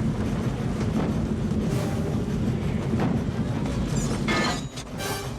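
Film soundtrack of a steam locomotive running down the track at a steady speed: a continuous low rumble and rail clatter with music underneath. Near the end the rumble drops away and a short burst of hiss follows.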